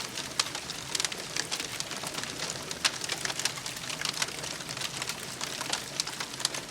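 Wood campfire crackling, with many irregular sharp pops over a steady hiss.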